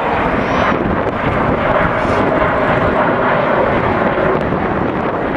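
Avro Vulcan XH558's four Rolls-Royce Olympus jet engines running loud and steady as the bomber flies its display pass, with a faint tone through the middle.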